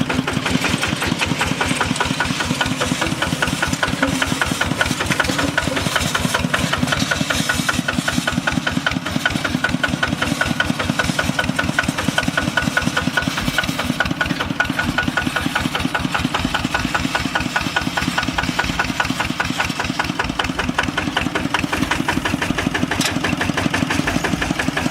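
Single-cylinder Kubota RT diesel engine of a walking hand tractor running steadily, with an even, rapid chugging pulse.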